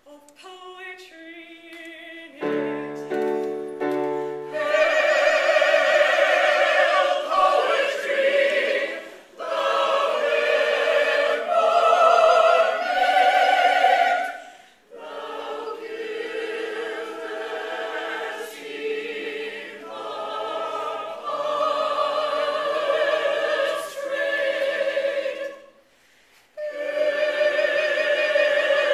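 A choir singing, the voices full of vibrato, in long phrases broken by brief pauses, after a few seconds of quieter opening notes.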